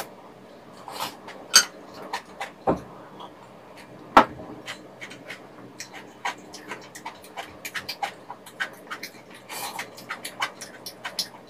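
Close-miked eating sounds: wet chewing and mouth clicks on a mouthful of ramen noodles, with chopsticks clicking against a plate. Sharp clicks stand out about a second and a half in and, loudest, about four seconds in.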